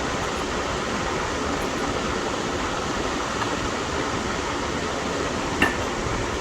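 Steady fan-like background noise, with a single light metallic clink about five and a half seconds in as brake pads and caliper hardware are handled.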